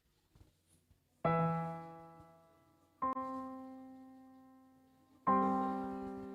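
Piano striking three chords about two seconds apart, each left to ring and fade before the next.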